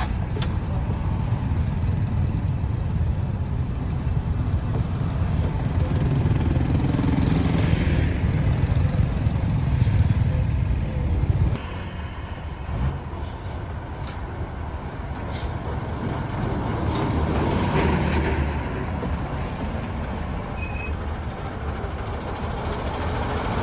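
Road traffic noise: a steady low engine rumble with tyre and wind noise from passing vehicles. It drops somewhat and suddenly about halfway through.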